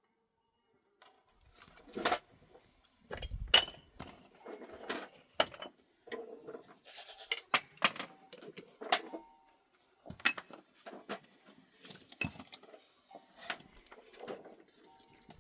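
Irregular clinks and knocks of hard objects striking one another, some with a brief ring, after about a second of silence.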